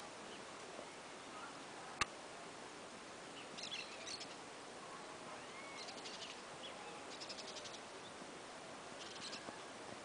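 Birds chirping in several short bursts of rapid high notes over a faint outdoor background, with one sharp click about two seconds in.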